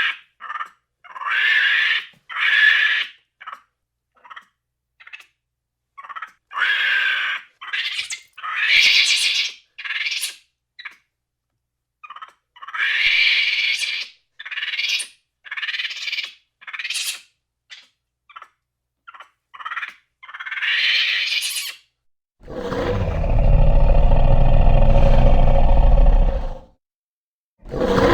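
A series of short, high-pitched animal calls, each under a second, with pauses between them, then a long, loud, deep roar about four seconds long near the end.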